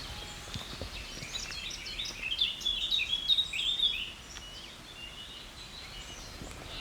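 Songbird singing a quick run of high chirps for about two and a half seconds, fading out about four seconds in, over low outdoor background noise.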